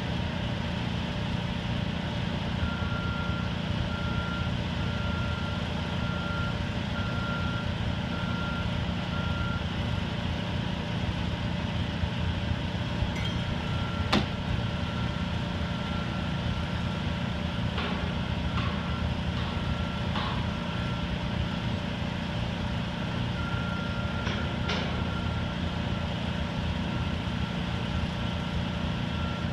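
Detroit Diesel engine of an American Hoist & Derrick 9530 crane running steadily under a working load, with a backup alarm beeping on and off over it and a sharp metallic clank about 14 seconds in, followed by a few fainter knocks.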